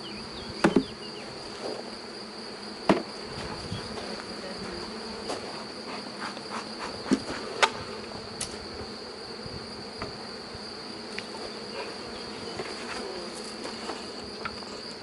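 Honeybee swarm buzzing steadily, with several sharp knocks as clustered bees are knocked off into a hive box; the loudest knocks come about a second in, at about three seconds, and twice more near the middle.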